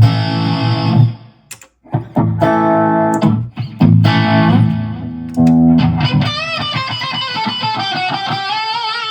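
Electric guitar played through a Line 6 modeling amp: short chords for about six seconds, then a held chord that rings on with a wavering pitch.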